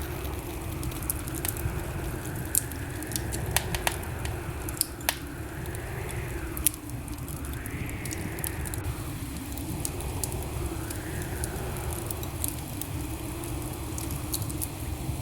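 Wood fire crackling, with sharp irregular pops over a steady rushing hiss. A soft tone swells and fades every few seconds beneath it.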